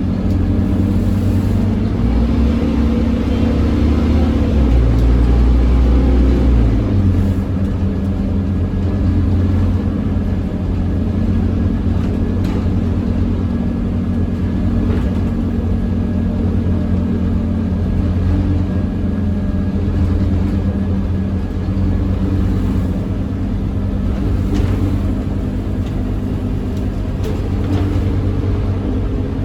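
Scania OmniCity double-decker bus engine running hard under full throttle, a steady drone whose pitch steps about two seconds in and again about seven seconds in.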